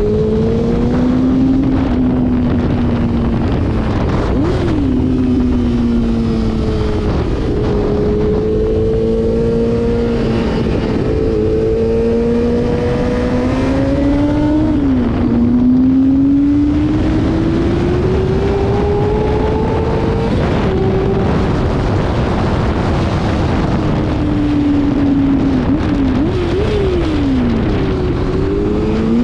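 Motorcycle engine at speed on a race track. Its note climbs slowly, drops sharply at gear changes about 5 and 15 seconds in, and near the end jumps up and down several times in quick succession.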